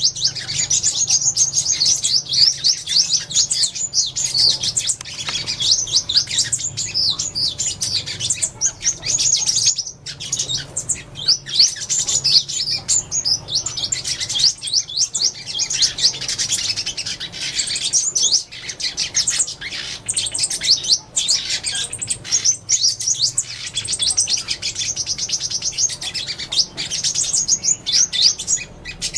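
Sunbird flock call: quick high-pitched chirps and twittering trills in rapid runs, going on almost without pause with only brief gaps.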